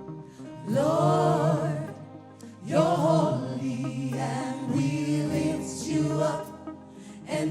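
Gospel worship music: voices singing long, wavering phrases over steady instrumental backing.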